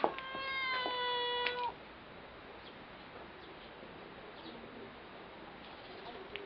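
Domestic cat meowing once: a single long, drawn-out meow of about a second and a half, dropping slightly in pitch, just after a sharp tap.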